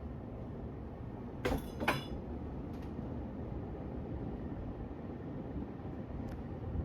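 Craftmade 42-inch Decorative ceiling fan running on high speed: a steady low whir of motor and blades, with good bearings. Two short clinks come about a second and a half in.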